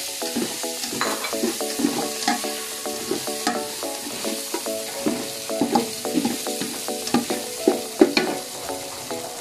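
Sliced hotdogs frying with sautéed garlic and onion in a metal pot, sizzling steadily, while a black plastic spoon stirs them with frequent short scrapes and knocks against the pot.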